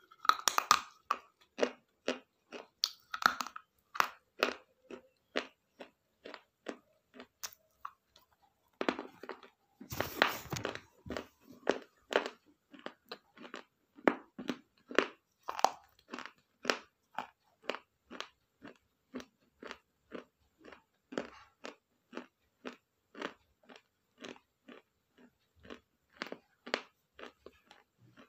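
A person chewing crunchy food close to the microphone, with short crisp crunches at about two a second. About nine seconds in there is a longer, louder burst of crunching.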